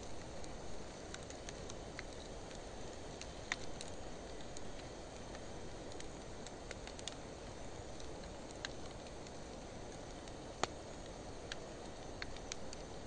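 Wood fire of driftwood and dry hardwood logs burning with a steady low rush, and irregular sharp crackles and pops from the burning wood, about ten of them scattered through. The loudest pop comes a little over ten seconds in.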